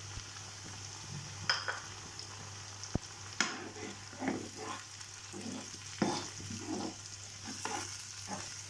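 Onions and freshly added tomato-ginger-garlic purée sizzling in hot oil in a nonstick pan. A steel spoon stirs and scrapes the pan in irregular strokes.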